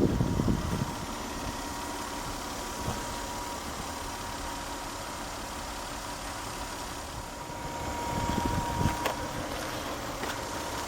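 The 3.0-litre V6 of a 1999 Toyota Solara SLE idling steadily, with a thin steady whine over the engine hum and a slight swell in level about eight seconds in.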